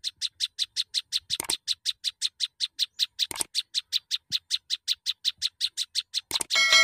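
Prenjak songbird calling in a fast, even run of short high chirps, about five or six a second. Near the end a louder call with several steady ringing tones cuts in, and two faint clicks fall in the first half.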